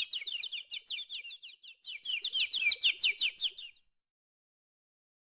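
Small birds chirping rapidly, a quick run of short high descending chirps that stops abruptly about two-thirds of the way in, followed by silence.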